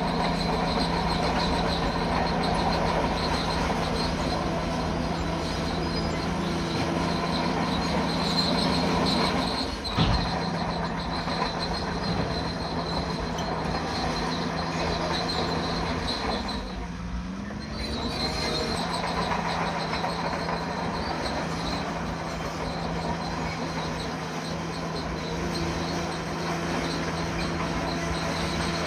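Bulldozer's diesel engine running steadily under work, with a high metallic squeal over it, typical of steel tracks. A single sharp clank comes about ten seconds in, and around seventeen seconds the engine note briefly drops and then climbs back.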